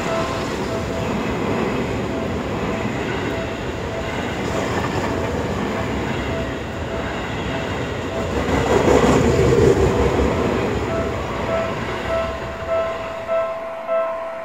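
Seibu Railway electric commuter train running past close by, its wheels rumbling on the rails and loudest about nine seconds in. A level-crossing warning bell rings throughout, a repeating ding about twice a second.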